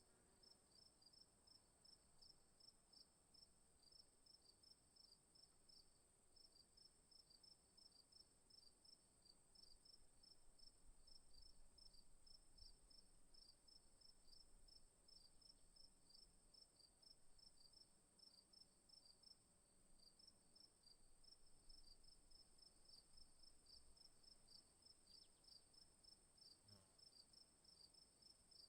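Faint insects, likely crickets, chirping in a rapid, even train of about four chirps a second over a steady high-pitched drone.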